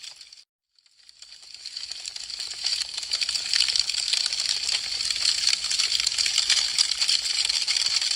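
Wood fire crackling with a dense run of small, sharp pops and ticks. The sound drops out to silence about half a second in, then fades back up over the next second or two and carries on evenly.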